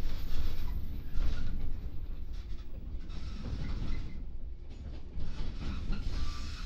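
Interior running sound of a 415 series electric multiple unit: the steady rumble of wheels on the rails, with uneven knocks from the track, heard from inside the passenger car.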